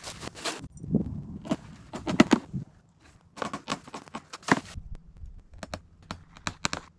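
Irregular sharp clicks and knocks with short rustling scrapes, coming faster in the second half: hand work on a fence repair.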